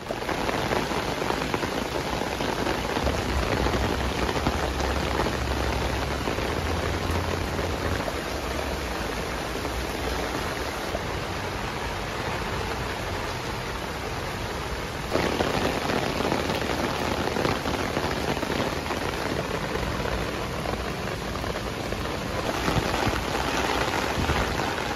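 Heavy rain falling on a tent's rainfly and the grass around it: a steady, dense downpour.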